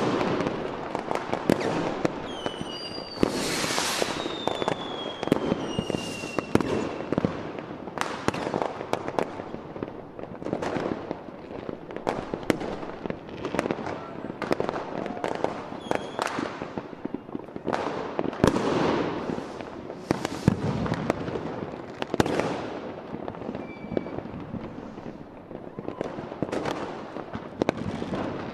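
Aerial fireworks display: a steady run of booming and crackling shell bursts at irregular intervals, with a few whistles falling in pitch about three to six seconds in.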